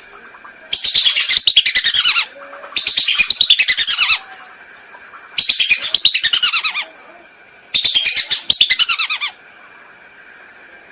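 Whistling ducks (belibis) calling: four bouts of rapid, shrill whistled notes, each about a second and a half long, every note sliding down in pitch. A recorded lure call used to draw the ducks in.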